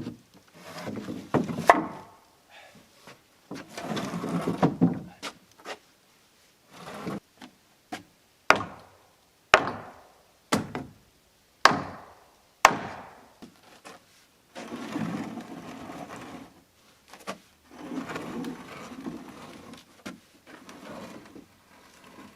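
Wooden framing lumber being handled, with stretches of scraping and knocking. In the middle come five sharp hammer blows, about a second apart, like a hammer driving a nail into the wood.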